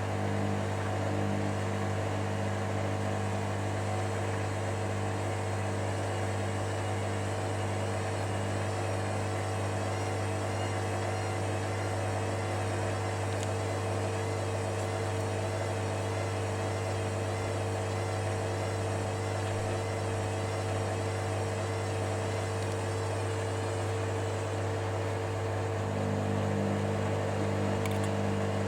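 Hoover Dynamicnext washer-dryer running mid-cycle, its motor and drum giving a steady hum with a faint wavering whine. The low tones shift slightly near the end.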